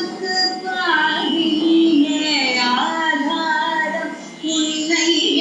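A woman singing a song, her voice holding notes and gliding between them.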